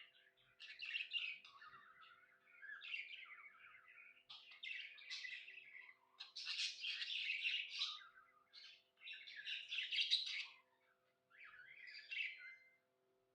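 Budgerigar chirping and warbling in busy bouts of one to two seconds with short pauses between them, falling silent near the end.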